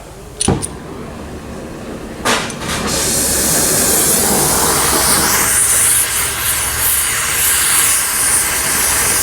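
A few sharp clicks and a knock, then about three seconds in a loud, steady spraying hiss starts and keeps going.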